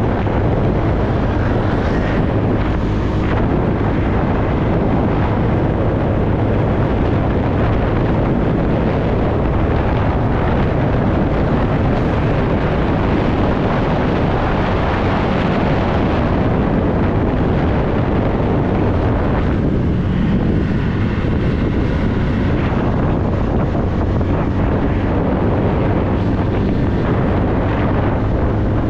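Wind buffeting the microphone on a moving TVS Ntorq scooter, with its engine running steadily underneath at cruising speed.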